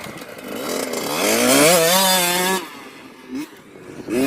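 Small dirt bike engine revving up, its pitch climbing for about a second and then holding high before the throttle closes about halfway through. Another rev begins near the end.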